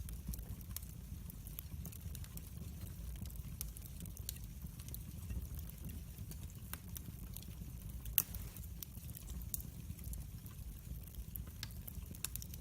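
Wood fire in a fireplace burning with a low steady rumble and irregular sharp crackles and pops, one louder pop about eight seconds in.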